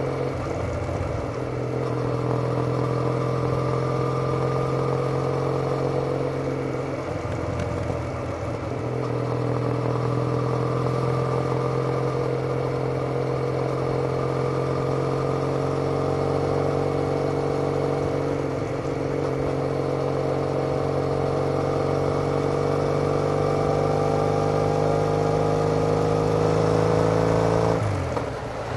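Triumph Bonneville parallel-twin engine heard through TOGA aftermarket silencers while riding. The exhaust note holds steady with its pitch slowly rising as the bike pulls, and dips briefly about four times.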